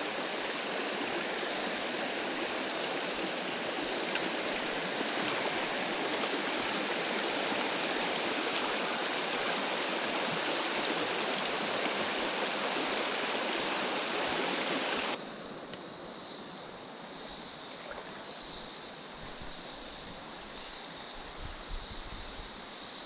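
Creek water rushing over rocks in a steady, even rush that cuts off suddenly about fifteen seconds in. After that it is quieter, with a high insect chirp repeating about once a second.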